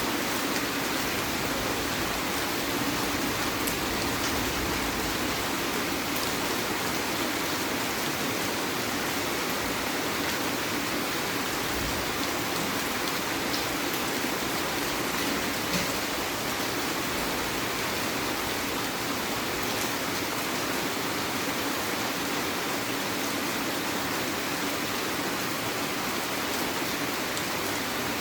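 Heavy rain falling steadily, a dense even hiss with a few scattered drop ticks.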